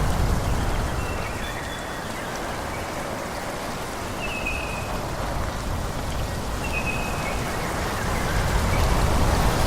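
Wind rushing through forest trees in a steady rustling hiss, with low buffeting that swells near the end. A bird gives short, slightly falling whistled notes every couple of seconds.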